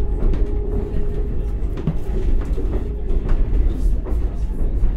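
Cabin noise aboard a moving Alstom Coradia iLint hydrogen fuel-cell train: a steady low rumble of the running train, with a few scattered clicks from the wheels and rails.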